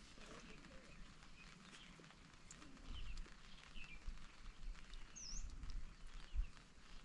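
Faint, scattered bird chirps, short calls coming now and then, over a low outdoor background. A few low rumbles and thumps on the microphone come in the second half, the loudest near the end.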